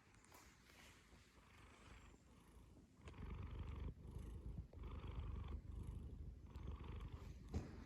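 Domestic cat purring: a low rumble, faint at first, then louder from about three seconds in, going in even breath cycles of roughly one and a half seconds.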